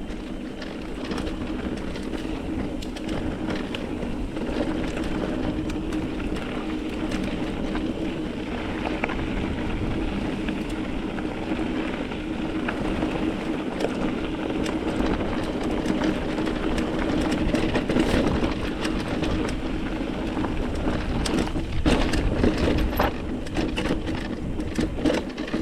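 Mountain bike rolling over rough, rocky singletrack: steady tyre noise on dirt and rock with frequent clicks and knocks of the bike rattling, busier near the end.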